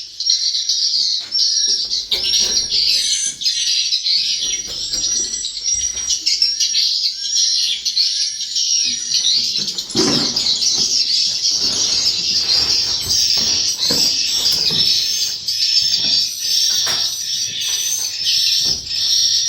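Swiftlets calling: a dense, steady run of short high-pitched chirps, with many short clicks and knocks joining in from about halfway through.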